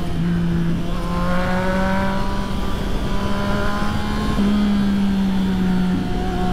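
Triumph Street Triple's three-cylinder engine pulling under way, heard from the rider's seat over wind noise. The engine note climbs slowly, with a gear change about a second in and another change in note around four and a half seconds in.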